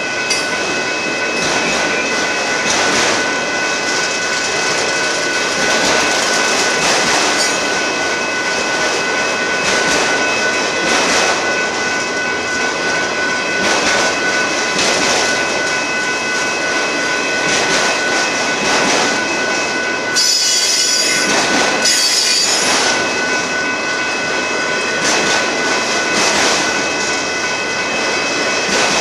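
Union Pacific autorack freight cars rolling past: a steady rumble of steel wheels on rail with repeated clicks over the rail joints, and a continuous high squeal from the wheels. About twenty seconds in, two short, sharper and higher squeals stand out.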